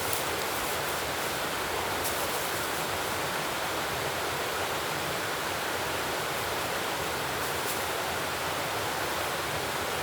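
Steady rushing hiss of water, like rain or running water, with two faint clicks.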